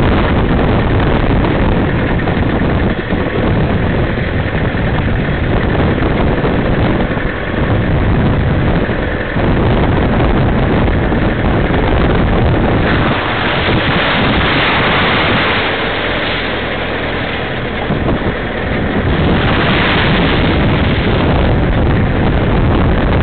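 Toyota Hilux four-wheel drive running, its engine rumble mixed with heavy wind buffeting on the microphone. A louder rushing hiss rises about thirteen seconds in and again briefly near twenty seconds.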